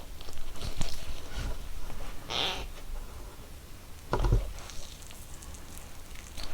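Close-miked chewing of soft gummy jelly candy: wet, sticky mouth sounds, with a few separate louder squelches, the biggest near the middle and another about four seconds in.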